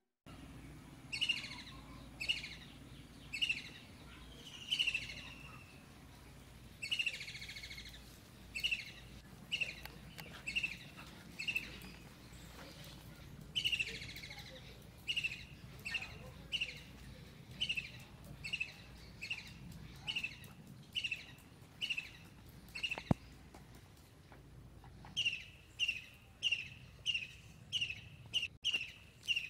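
A bird calling over and over in short, downward-sliding notes, about one to two a second, with a couple of brief pauses. A single sharp click comes about two-thirds of the way through.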